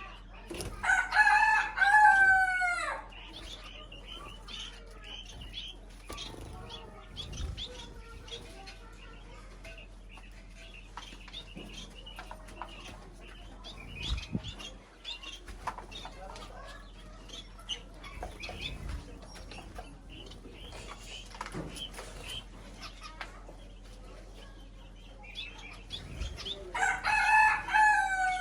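A rooster crows twice, about a second in and again near the end, each crow about two seconds long and falling in pitch at its close. Between the crows come quieter clucks and chirps and scattered clicks.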